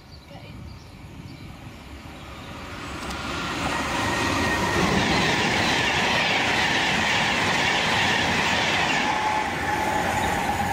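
Class 390 Pendolino electric train running through the station at speed. A rush of wheel and rail noise builds over the first few seconds, stays loud while the carriages pass close by, then drops away near the end.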